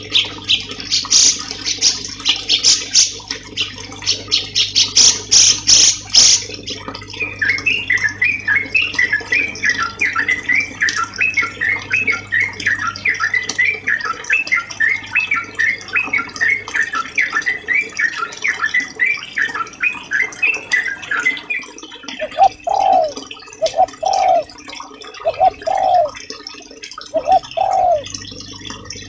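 Recorded songbird 'masteran' song used to train cage birds: a fast run of high, rapid repeated notes for about six seconds, then a long stretch of quick chirping phrases, then from about 22 seconds slower, lower repeated notes roughly one a second, over a steady low background hum.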